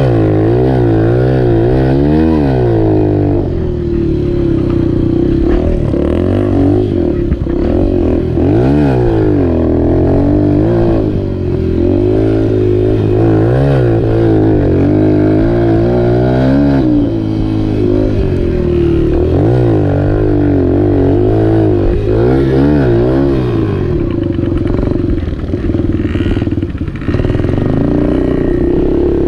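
Dirt bike engine being ridden, its pitch climbing and dropping again and again every two to three seconds as it is revved up and backed off.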